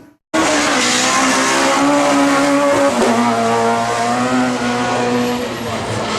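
Front-wheel-drive rally car driven hard, its engine at high revs with the pitch rising and falling, and a sudden dip about three seconds in. It starts abruptly about a third of a second in.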